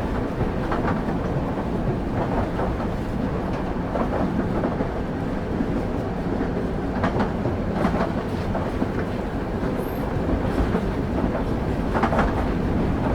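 Railway carriage wheels running on the track: a steady low rumble with an irregular clickety-clack of the wheels passing over rail joints, heard from on board the train.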